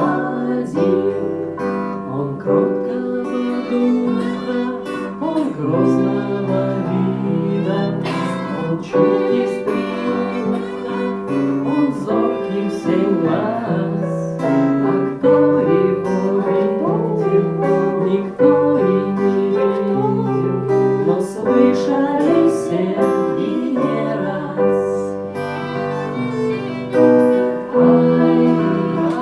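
Live acoustic band playing a gentle lullaby tune, with guitar among the instruments.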